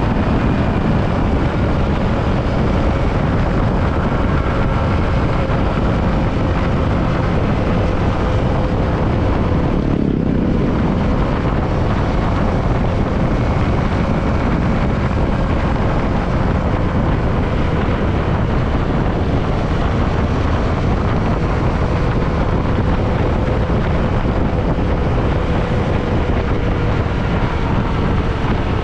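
Yamaha WR155R single-cylinder motorcycle engine running at a steady cruising speed, under heavy wind rushing over the microphone while riding.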